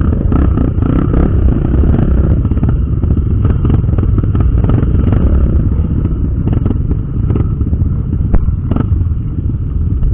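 Off-road trail motorcycle engine running under way, with clattering knocks as the bike rides over rough ground.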